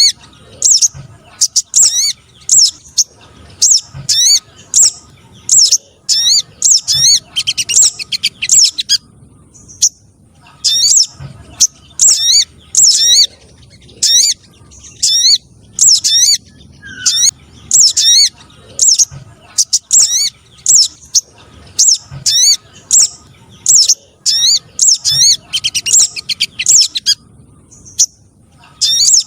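Recorded calls of the sogon trotol, a streaked spiderhunter, mixed with other small birds' calls and used as a lure for trapping wild birds: rapid, repeated short high chirps that sweep in pitch, broken by two brief pauses.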